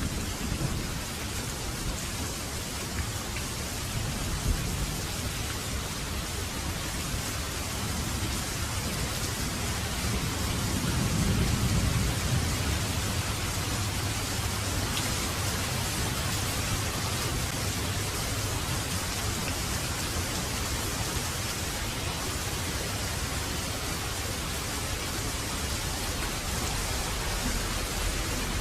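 Heavy rain falling steadily, with a low rumble of thunder swelling about ten seconds in and fading a few seconds later.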